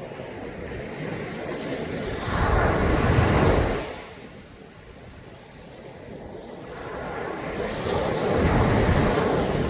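Caribbean Sea waves washing onto a beach. Two waves break about six seconds apart, each swelling up and then falling away.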